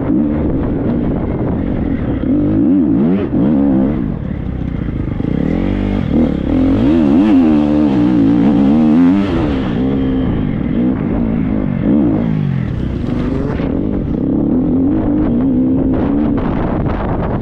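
Triumph 250 motocross bike's four-stroke single-cylinder engine, revving up and down over and over as it is ridden off-road. Short knocks and clatter come in near the end.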